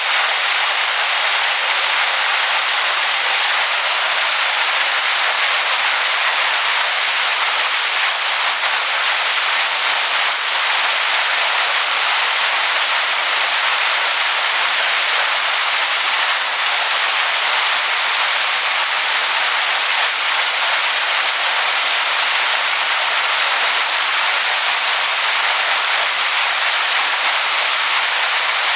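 Waterfall rushing over rocks: a steady, loud hiss of falling water with no breaks.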